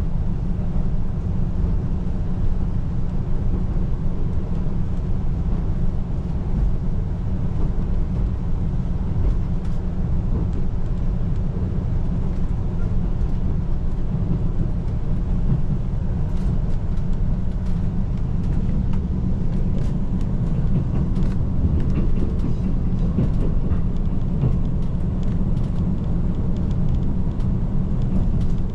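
KiHa 185 series diesel railcar running on the line, heard from inside the passenger cabin: a steady low rumble of engine and wheels on the track, with faint scattered clicks past the middle.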